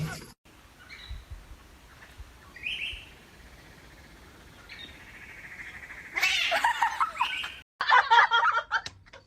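An animal's high-pitched calls: a brief chirp about three seconds in, then a run of short chirping calls over the last three seconds, broken by a cut.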